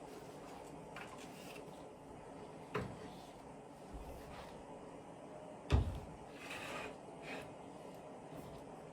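Two dull household knocks, like a cupboard or drawer being shut, a small one about three seconds in and a louder one near the middle, with faint handling rustle after the second.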